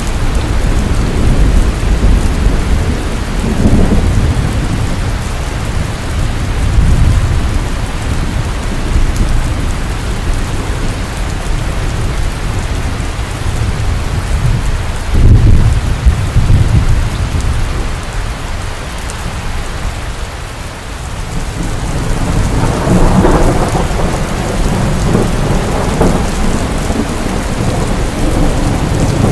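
Steady heavy rain falling on surfaces, with low rolling rumbles of thunder swelling several times, the loudest about halfway through and another long one near the end.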